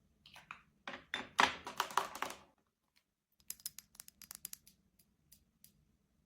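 Close handling noises: a burst of rustling, crinkling noise lasting about two seconds, then, after a short gap, a quick run of small sharp clicks that thin out near the end.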